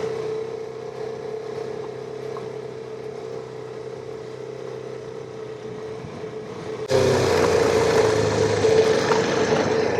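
KTM 390 Adventure's single-cylinder engine running steadily under way. It grows suddenly louder, with more rushing noise, about seven seconds in.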